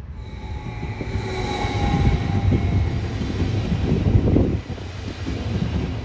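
Electric train running through a station: a low rumble that builds and is loudest about four seconds in, with a high whine over it for the first few seconds.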